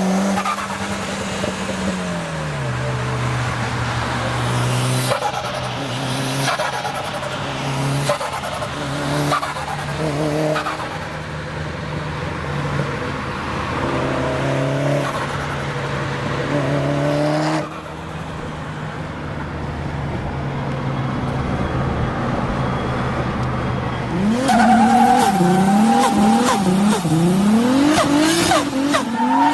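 Tuned turbocharged car engines, cut together one after another. An engine idles, then revs in short blips with turbo flutter and blow-off valve hiss between them. Near the end another engine revs up and down several times in quick succession.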